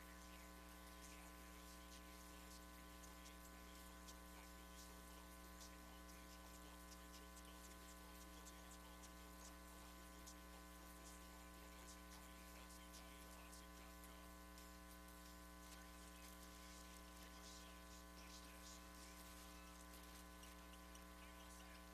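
Near silence with a faint steady electrical mains hum and light scattered crackle.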